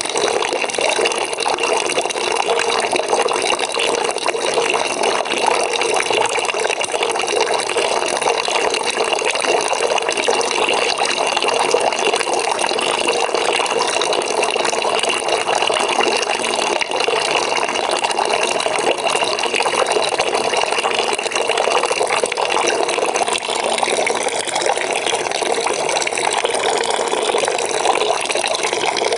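Water pouring steadily from a tap into a bucket, an even splashing rush with no breaks.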